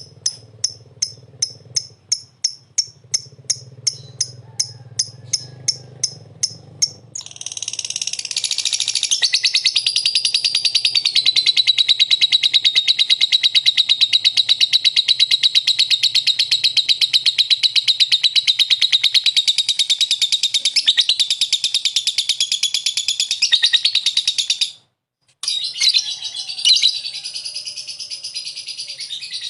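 Lovebird calling: a run of evenly spaced sharp chirps, about three a second, then from about seven seconds in a long, unbroken, high chattering trill. The trill stops for a moment near the end and then carries on.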